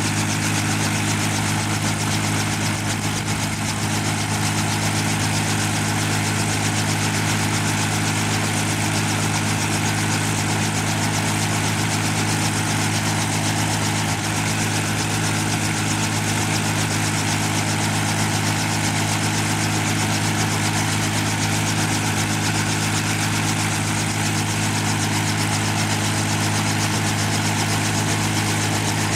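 Helicopter engine and rotor running steadily at a constant, loud level, with a fixed low hum made of several steady tones under an even rushing noise.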